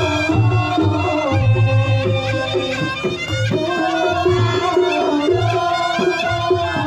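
Reog Ponorogo ensemble playing jathilan-style accompaniment: a slompret (double-reed shawm) plays a wavering, sliding melody over kendang drums and repeated low beats.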